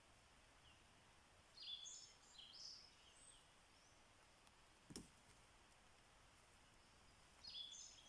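A songbird sings a short, high warbled phrase twice, about six seconds apart, over faint steady background hiss. A single sharp click falls between the two phrases.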